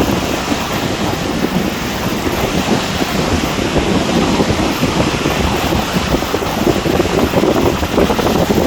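Strong storm wind buffeting the microphone: a loud, steady rumble that flutters rapidly.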